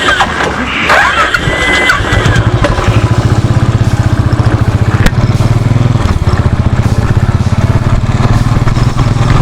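Motorcycle engine starting about two seconds in, then running at idle with an even, fast beat. A few short high chirps come just before it starts.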